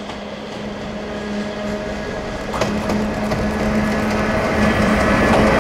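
A train approaching and getting steadily louder, with a steady electric hum and a sharp click of wheels over a rail joint about two and a half seconds in.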